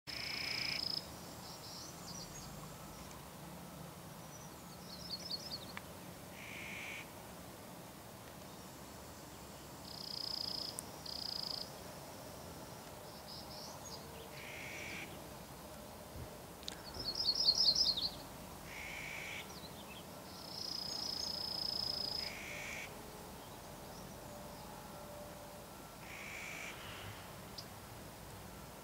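Birds calling on and off every few seconds: clear, held high whistles, shorter lower notes, and quick high trills. The loudest trill comes about two-thirds of the way through.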